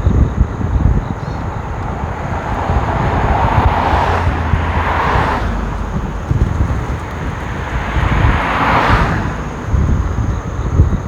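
Wind buffeting the microphone of a moving scooter, with two vehicles hissing past on wet road, one about four seconds in and one about nine seconds in, each rising and fading.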